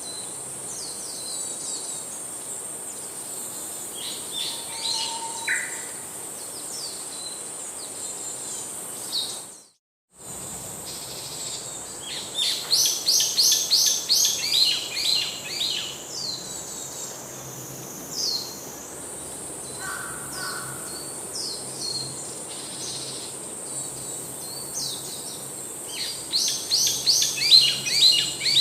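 Birds chirping in quick runs of high notes, loudest a little after the middle and again near the end, over a steady high-pitched buzz. The sound cuts out completely for a moment about ten seconds in.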